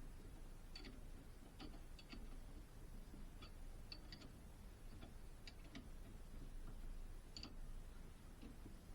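Faint light ticks or clicks, unevenly spaced at about one or two a second and sometimes in close pairs, over a low steady hum.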